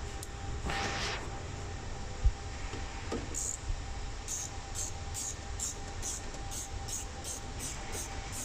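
Hand-tool work on a large-format printer during disassembly: a short scraping hiss, then a sharp knock. After that comes an even series of light, high ticks, about two to three a second. A low steady hum runs underneath.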